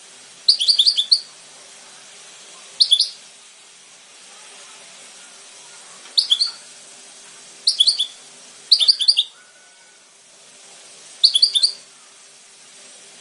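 European goldfinch singing in short bursts of quick, high twittering notes: about six brief phrases separated by pauses of one to three seconds. A faint steady hum runs underneath.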